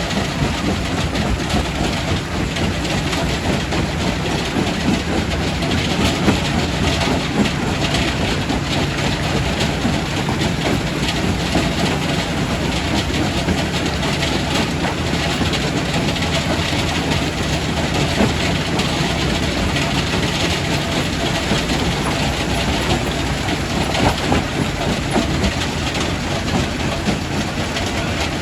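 Quarry primary rock crusher running and crushing stone: a steady heavy rumble with a low machine hum and constant irregular clatter and knocking of rock.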